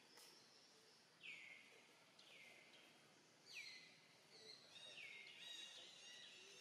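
Faint, distant bird calls: short notes that each sweep down and level off, repeating about once a second, with a brief run of higher chirping about five seconds in.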